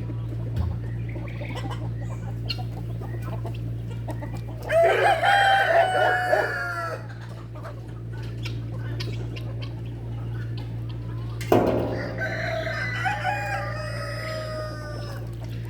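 Rooster crowing twice, about five seconds in and again near twelve seconds, over a steady low hum.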